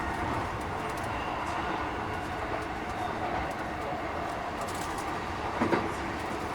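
Interior running noise of a Keikyu 1000-series electric train with Mitsubishi IGBT-VVVF traction equipment: a steady rumble of wheels and motors, with a brief louder clank or squeal about five and a half seconds in. The uploader finds this set's running sound slightly noisier than other sets of the class.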